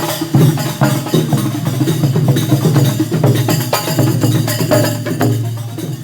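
Percussion-heavy music from a passing street parade: quick, steady strikes like wood blocks and drums over a low pitched line.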